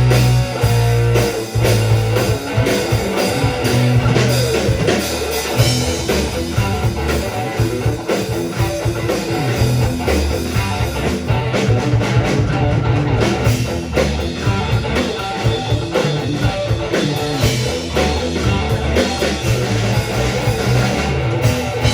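Rock band playing a song with electric guitar, bass and drums.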